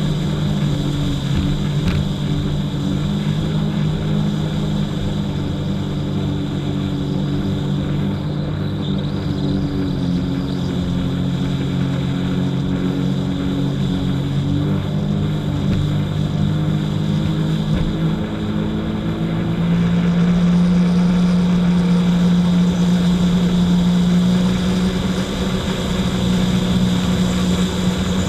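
Jet ski engine running steadily with a constant drone. About two-thirds of the way through, its pitch shifts and it gets slightly louder as the engine speed changes.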